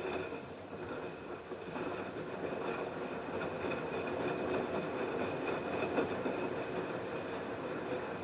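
LG F10B8QD1 direct-drive front-loading washing machine running its wash cycle: a steady mechanical whir and rush with a thin high whine, which builds up just before the sound begins and then holds.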